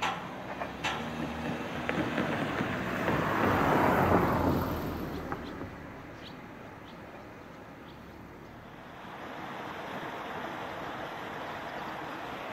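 A train passing: a few sharp clicks from the wheels, then a rush of noise that swells and fades away about five to six seconds in, leaving steady background noise.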